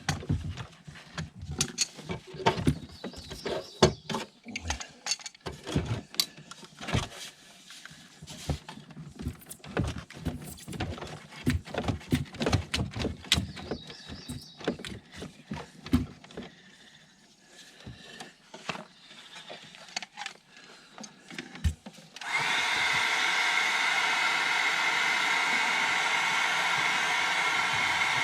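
Scattered clicks and knocks of hand tools and metal parts being worked inside the hot tub's equipment box. About 22 seconds in, an electric heat gun switches on suddenly and runs loud and steady, warming the flexible plumbing pipe to make it pliable.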